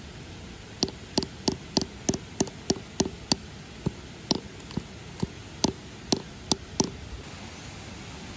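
Tent stakes being hammered into the ground: a run of about seventeen sharp knocks at roughly three a second, with a brief pause midway.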